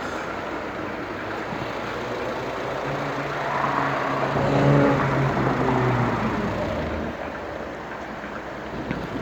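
A motor vehicle passes close by. Its engine hum swells to a peak about halfway through and fades over a few seconds, above steady wind and road rush from riding a bicycle.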